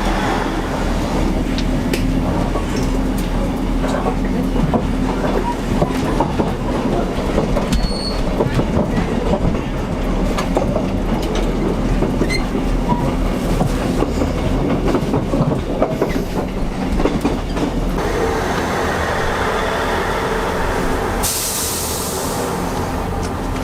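Passenger train running, heard from inside the carriage: a steady low rumble with frequent clicks and rattles of the wheels over the track. The sound changes about three-quarters of the way through, and a high hiss comes in near the end.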